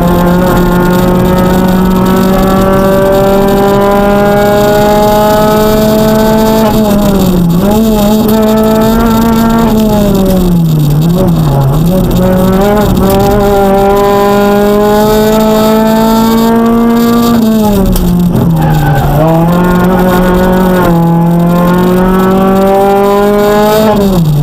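Citroën DS3 R1 rally car's engine at stage pace, heard from inside the cockpit. The note climbs slowly through long pulls and dips sharply several times at gear changes and lifts, with a double dip near the middle.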